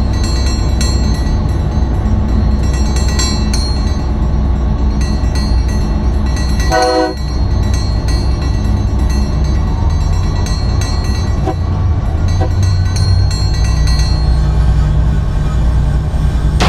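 Freight locomotive running steadily, heard from the cab as a continuous low rumble. A brief horn blast sounds about seven seconds in.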